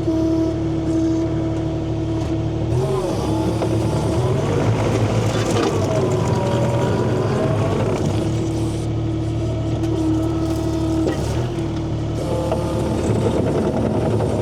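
Engine running steadily with a held hum, its pitch dipping and rising a few times as the load or revs change.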